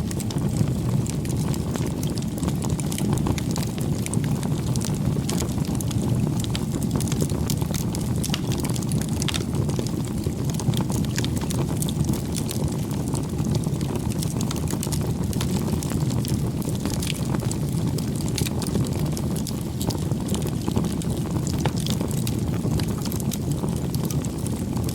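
Wood fire burning steadily, a constant low rush with many small irregular crackles and pops.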